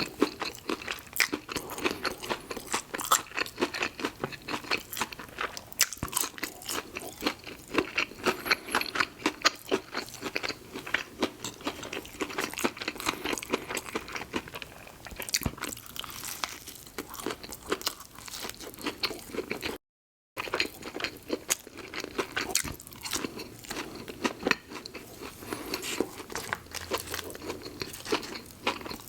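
Close-miked chewing and crunching of crispy fried fast food: wings and fries. There is a dense run of wet crunches and mouth clicks, broken by an instant of total silence about two-thirds of the way through.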